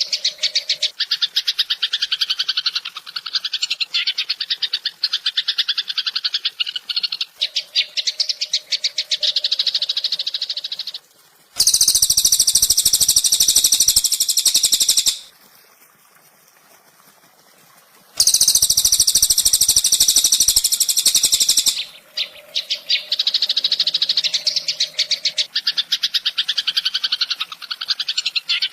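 Songbird masteran (bird-training) recording: fast, buzzing pulsed bird trills repeating continuously, with two louder, higher-pitched trill passages in the middle separated by a pause of about three seconds.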